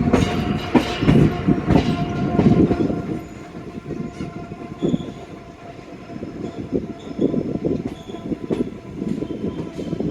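Passenger train rolling on the rails: a rough rumble with irregular wheel knocks, louder for the first three seconds and then easing, over a faint steady tone.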